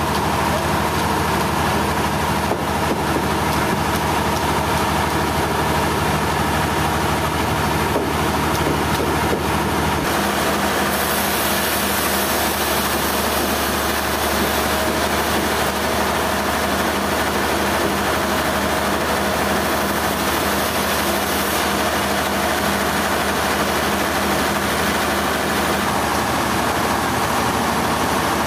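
Heavy sawmill machinery running steadily with an engine hum; its tone shifts about ten seconds in and a high hiss comes and goes in the middle.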